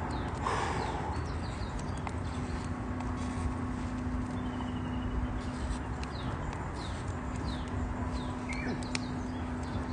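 Campfire crackling with sharp scattered pops, while small birds give short falling chirps over and over; a low steady hum runs underneath.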